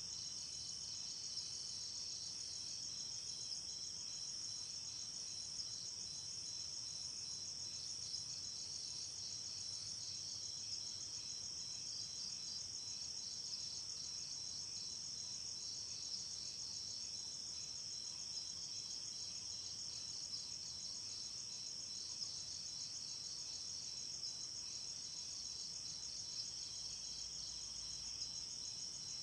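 Crickets and other night insects trilling in a steady, continuous high-pitched chorus, with a second faster, regular pulsing just below it.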